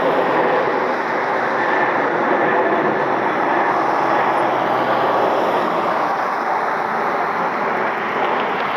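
Jet engines of an Airbus A330 at takeoff power as it departs, a loud, steady rushing noise that eases slightly toward the end.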